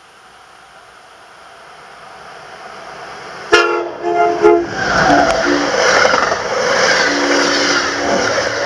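Amtrak AEM-7 electric locomotive and its passenger train approaching at speed and passing close by. About three and a half seconds in, its horn sounds four blasts, the last about a second long. A loud rush of the cars going by follows.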